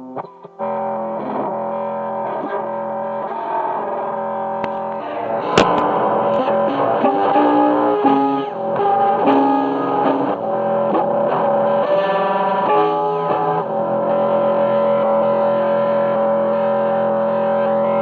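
Music: a guitar played through distortion and effects, holding long droning notes and chords. It gets louder with a sharp attack about five and a half seconds in and settles into one long held chord near the end.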